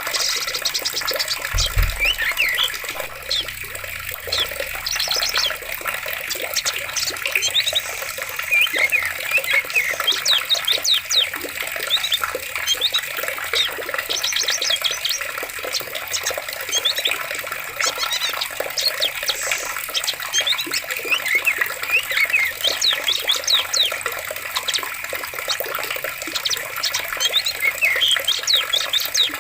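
Steady rush of flowing water, a stream, under frequent chirps and trills of forest birds throughout. A brief low thump comes about two seconds in.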